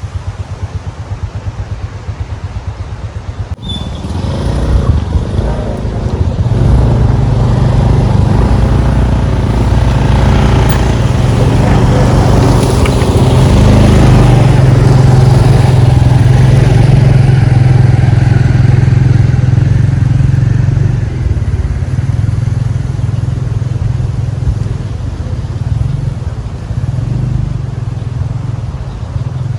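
A motor vehicle engine running, getting louder about four seconds in and easing off over the last third.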